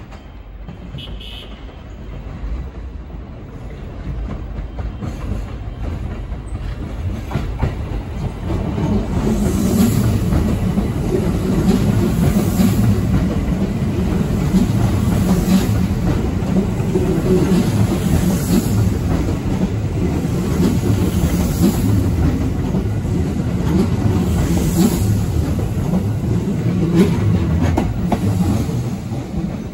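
A Kintetsu rapid express electric train passing through the station without stopping. Its running noise builds as it approaches, then holds steady, with a sharp wheel clack over rail joints every few seconds, and eases a little near the end.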